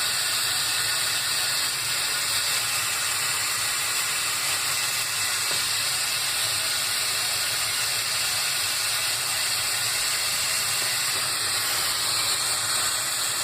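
Tap water running steadily into a sink, filling it for a drain leak test.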